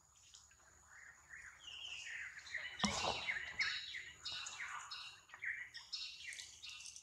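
Birds chirping in quick, short notes, with a single sharp knock about three seconds in.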